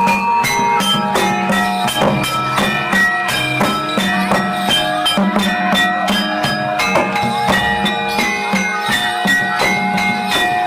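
Javanese gamelan music accompanying a jathilan horse dance: struck metallophones ringing in interlocking notes over a steady, even drum beat, with bright jingling on top.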